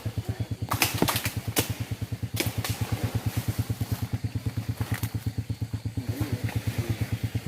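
Motorcycle engine idling with an even, rapid putter, with a few sharp clicks in the first two and a half seconds.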